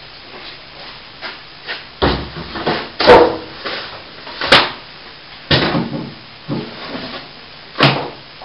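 Broken pieces of fallen plasterboard ceiling being picked up and dropped onto a pile: a run of irregular knocks, crunches and clattering bangs, the loudest about three and four and a half seconds in.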